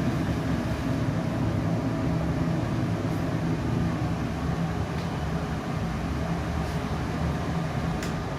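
Steady mechanical hum of a laser cutter and its air and exhaust fans running, with a low drone and a few faint ticks.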